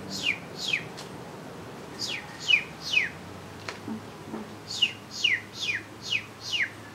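A bird calling: sharply falling chirps, about two a second, in three runs of two to five with short pauses between.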